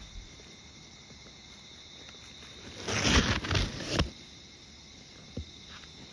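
Insects trilling steadily at a high pitch, broken about three seconds in by a loud, close rustling noise that lasts about a second.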